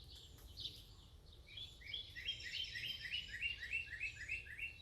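A bird singing a quick run of about a dozen short, high chirping notes, about four a second, beginning about one and a half seconds in, with a few fainter chirps before it.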